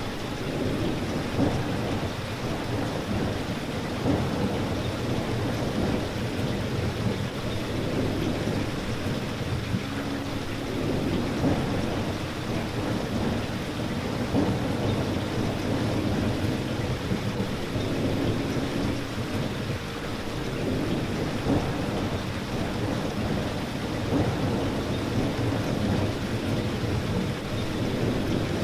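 Steady rain falling, the sound weighted toward the low end, with occasional slightly louder drop impacts.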